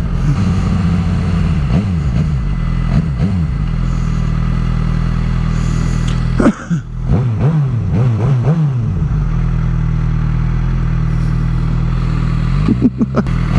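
A 2006 Suzuki GSX-R 750's inline-four engine running while being ridden, its pitch rising and falling several times. Its loudness drops briefly about six and a half seconds in and again near the end.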